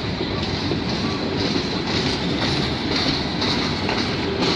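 CN freight train passing slowly, its covered steel-coil cars rolling by: steady noise of steel wheels on the rails.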